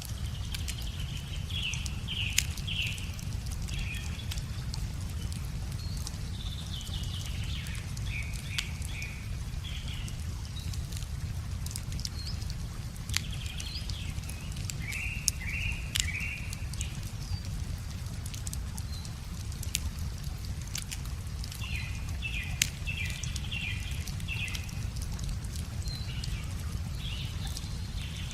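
Wood fire crackling with scattered sharp pops, while a songbird sings short repeated phrases in several bouts, over a steady low rumble.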